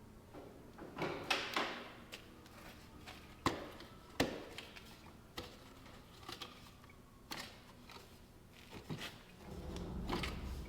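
Scattered knocks, clicks and clinks of hand tools and metal parts being handled while servicing a skid steer, with a few sharper knocks and a low rumble near the end.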